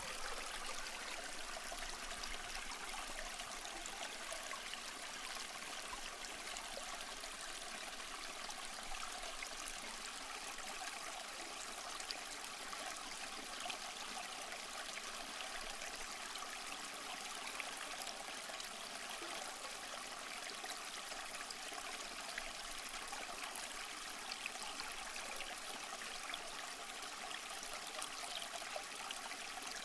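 Steady rain falling: an even hiss of rain with scattered small drop taps throughout.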